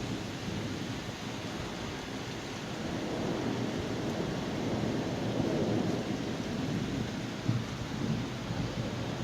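Steady rain with a low rumble of thunder that builds a few seconds in and rolls on through the rest.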